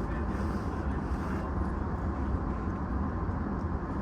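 Steady low hum and noise of an E233-6000 series electric train standing still with its onboard equipment running, such as air conditioning and auxiliary power, with a faint steady tone above it.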